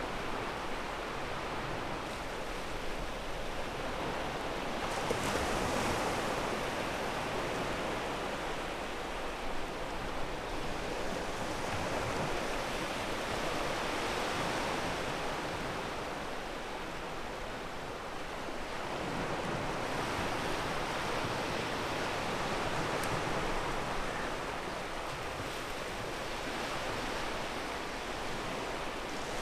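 Sea waves washing onto a pebble beach: a continuous rush of surf that swells and eases every several seconds, with a stronger surge about five seconds in.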